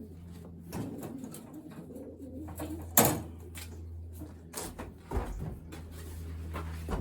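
Racing pigeons cooing, with a sharp knock about three seconds in and a few softer knocks near the end.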